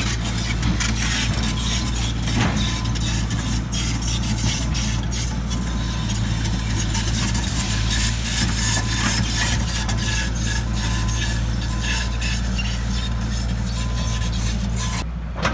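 Large excavator's diesel engine running steadily under load while its bucket scrapes and knocks against bedrock, with frequent sharp clanks and grinding.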